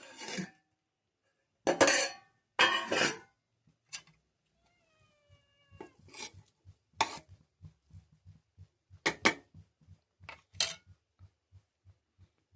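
Metal cooking utensils clattering against a pot: a few loud clanks in the first three seconds, then lighter scattered taps.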